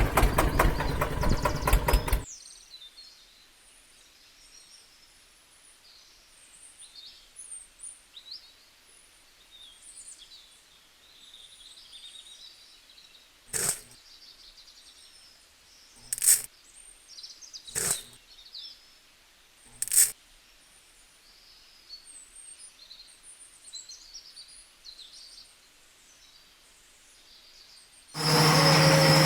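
Small birds chirping faintly, with four sharp clicks or knocks in the middle. Music plays for the first two seconds, and a loud, steady machine-like sound begins near the end.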